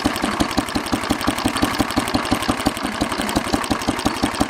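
Old tractor engine running at a steady idle, with rapid, even exhaust beats.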